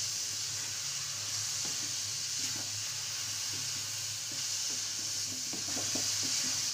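Grated carrot halwa frying in ghee in a kadhai, a steady sizzle, with the light scrape and tap of a spatula stirring it.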